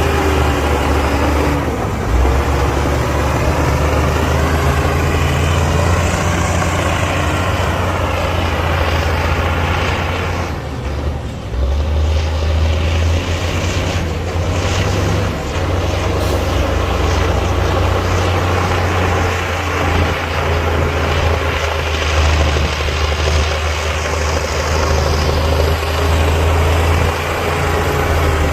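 Heavy diesel earthmoving machinery running under work, its engine note swelling and easing, with a brief drop in level about ten seconds in.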